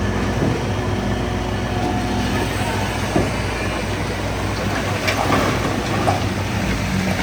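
Bulldozer's diesel engine running steadily under load, with the steel tracks clanking and squealing, a few sharper clanks about five and six seconds in.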